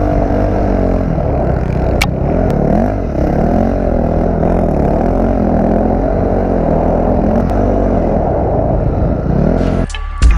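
Dirt bike engines revving as the riders race, the pitch climbing and dropping every second or so as they open and back off the throttle. Music cuts in near the end.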